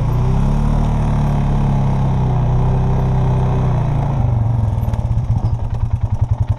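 John Deere 1025R compact tractor's three-cylinder diesel engine running while it warms up. Its speed rises just after the start, holds for about four seconds, then drops back to a chugging idle.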